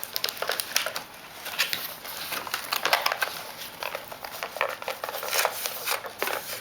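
Toy packaging crinkling and rustling in irregular crackles as a toy tractor is worked out of its box.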